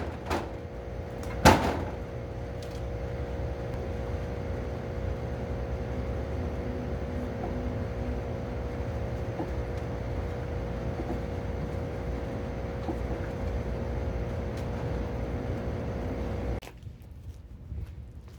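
A machine's motor hums steadily and cuts off suddenly near the end. A sharp knock comes about a second and a half in.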